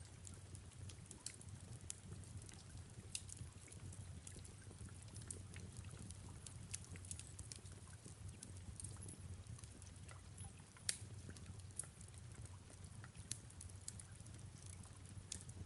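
Fireplace crackling: irregular sharp pops and snaps over a low steady rumble, with soft rain behind it. The loudest pop comes about eleven seconds in.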